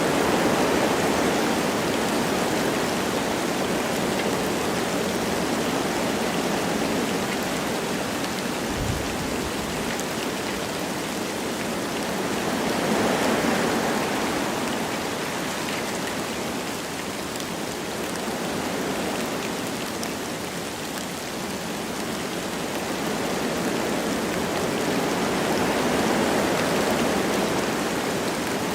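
Wind blowing through forest trees with light rain falling, a steady rushing hiss that swells in slow gusts about a dozen seconds apart.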